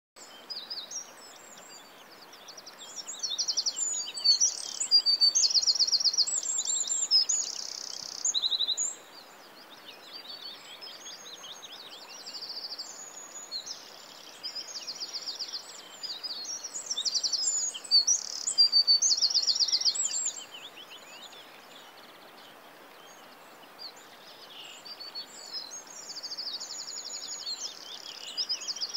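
Many small birds chirping and singing, with fast trills of rapidly repeated notes, over a steady faint hiss; the song swells in two louder stretches, about 4 seconds in and again at about 17 seconds.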